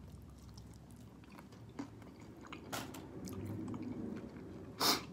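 A person chewing fried chicken with the mouth close to the microphone: soft wet mouth clicks, and one louder, short noisy crunch or smack near the end.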